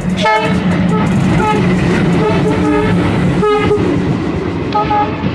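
Train running with a steady, loud rumble, and several short pitched calls or hoots heard over it.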